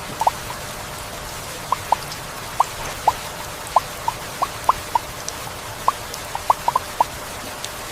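Rainforest rain: a steady hiss of rainfall with irregular, clear plinks of single drops, about two or three a second, scattered through it.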